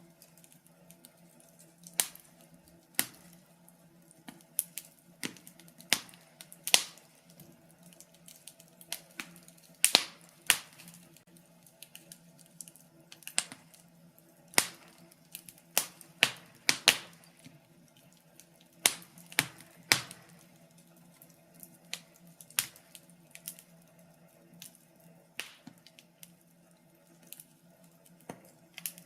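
Wood fire crackling in a fireplace: irregular sharp pops and snaps from the burning logs, over a faint steady hum.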